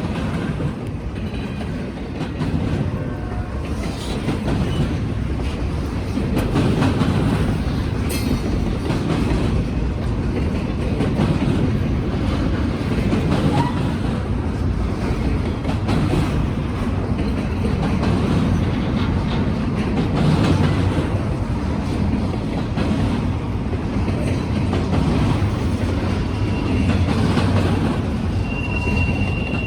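Empty Norfolk Southern freight train rolling past, a steady rumble and clatter of wheels over the rail joints, with a thin high wheel squeal near the end.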